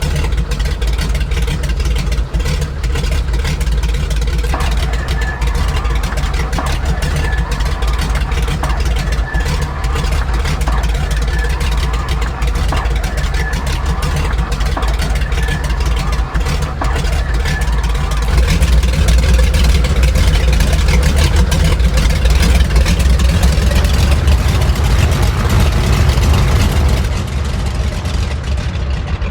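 Grumman Goose's radial engines running steadily. They grow louder about two-thirds of the way through, then ease back again near the end.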